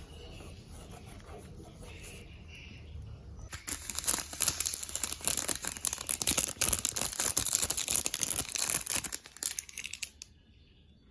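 Plastic packaging being crinkled and torn, a dense, loud crackle that starts about a third of the way in, lasts about six seconds and stops shortly before the end.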